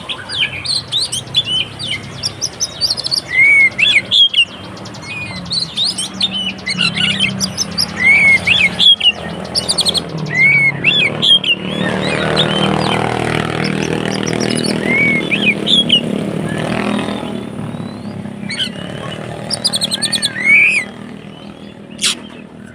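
Oriental magpie-robin (kacer) singing in its agitated, fighting 'konslet' style: a fast, unbroken string of short arched whistles and sharp chips. A steady low hum runs beneath, with a louder noisy swell in the middle.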